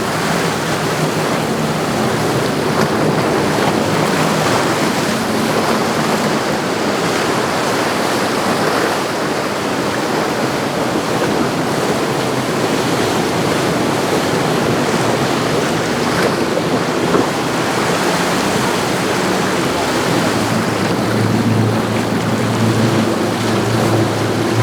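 Steady rush of wind on the microphone and inlet water washing, with the low drone of a passing motor yacht's engines under it; near the end the engine hum of another boat grows stronger.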